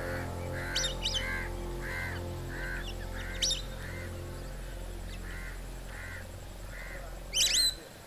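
Birds calling: a steady series of short harsh calls, about two a second, with a brief pause midway. A few sharp high chirps from other birds cut in, with a louder burst of them near the end.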